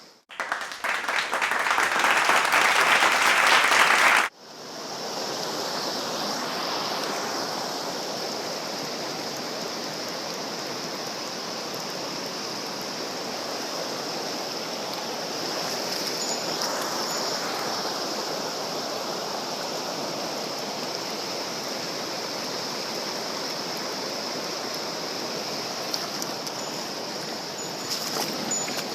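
Mountain stream water rushing steadily, a louder, brighter rush for the first four seconds that cuts off abruptly, then a softer, even flow.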